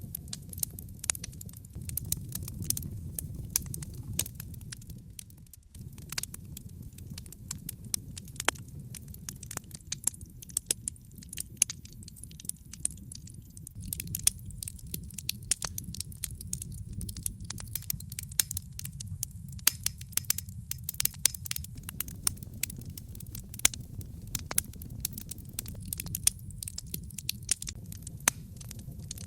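Wood logs burning in a fireplace: frequent irregular sharp crackles and pops over a low, steady rumble of the flames.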